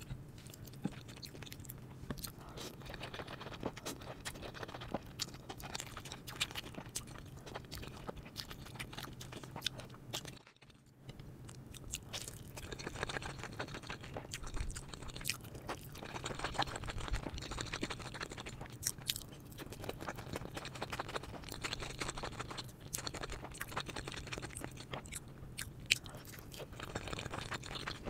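Close-miked ASMR eating: a person chewing and biting food, with crunching and wet, crackling mouth sounds throughout. The sound drops away briefly a little over a third of the way through, then the chewing resumes.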